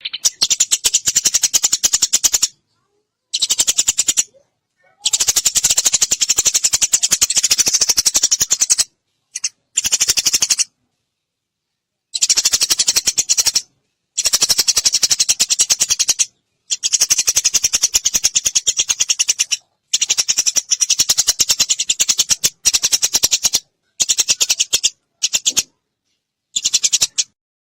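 Eurasian tree sparrows chirping and chattering in rapid, dense runs of a few seconds each, every run cutting off abruptly into a short silent gap.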